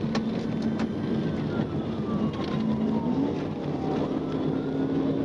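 Police pursuit car driving at high speed: a steady engine drone under heavy road and wind noise, with a siren's slow wail heard faintly, falling in pitch over about three seconds and then rising again.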